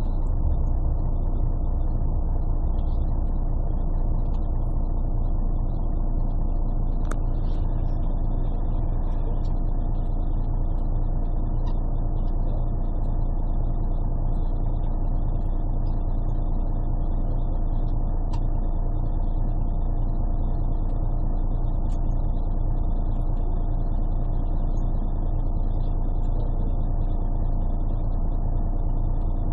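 Scania CN113CLL city bus's DSC 11 six-cylinder diesel engine running at a steady speed, heard from inside the bus. The sound is muffled and bass-heavy because the phone microphone was partly covered.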